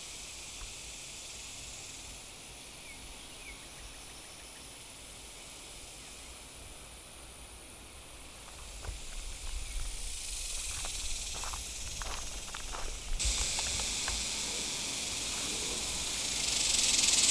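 Cicadas buzzing in a steady, high-pitched chorus, stepping up in loudness about two thirds of the way through and swelling much louder near the end.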